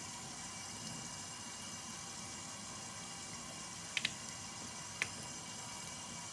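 Wet, soapy water sounds as a doll's hair is washed with dish soap, with two short clicks a second apart near the end.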